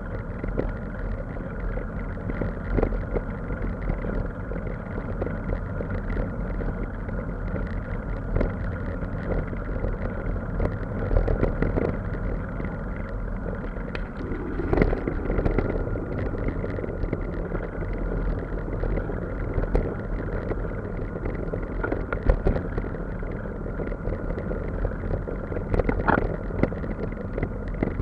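A steady engine rumble with a faint steady whine running through it, and a few light knocks here and there.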